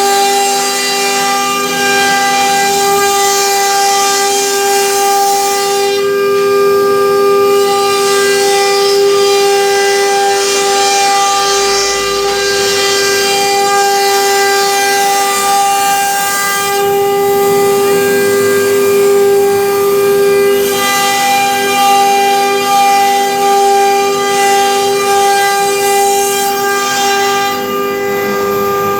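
CNC router spindle running at a steady pitch while cutting MDF board, with a hiss of cutting noise that shifts every few seconds as the bit moves through the board.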